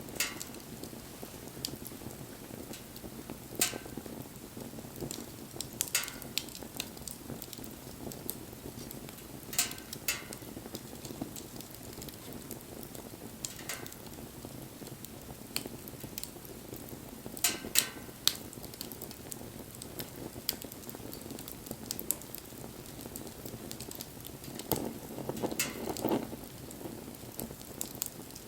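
Wood campfire burning: a steady low rush of flame with sharp pops and crackles from the wood every few seconds, and a brief louder rush of burning near the end.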